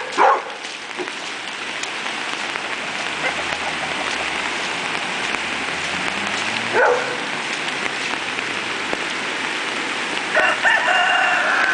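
Steady rain hiss throughout, with a dog barking twice right at the start and once about seven seconds in. A rooster crows near the end, a held call lasting over a second.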